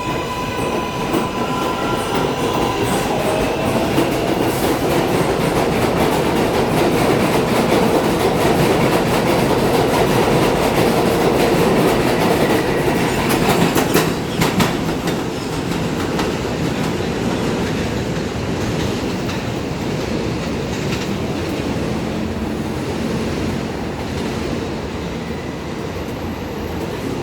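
New York City subway train running through the station on steel rails, a continuous rumble and rattle of wheels on track. It grows loudest in the middle, with a few sharp clicks about fourteen seconds in, then eases off.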